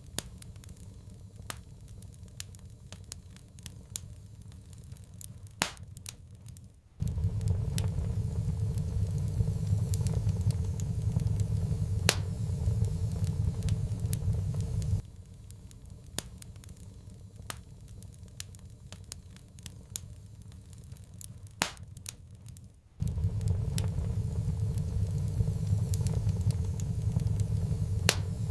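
Wood fire in a fireplace crackling, with scattered sharp pops. A low rumble of the fire cuts in abruptly about seven seconds in, stops suddenly about fifteen seconds in, and returns about twenty-three seconds in.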